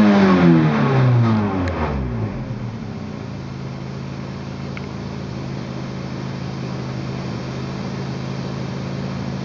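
Toyota AE86's 4A-GEU twin-cam inline-four engine falling back from a rev over about two seconds, then idling steadily.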